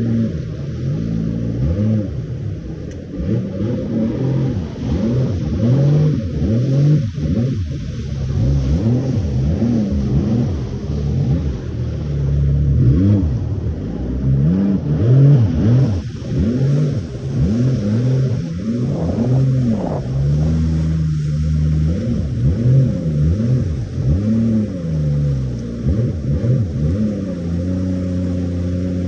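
Jet ski engine running hard, its pitch repeatedly rising and falling as the throttle is worked over the waves.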